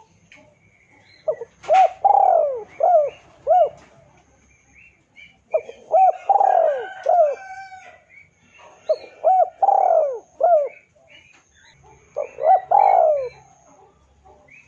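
Spotted dove (tekukur) cooing: four phrases of several low, rounded coo notes, a few seconds apart. Small birds chirp faintly behind.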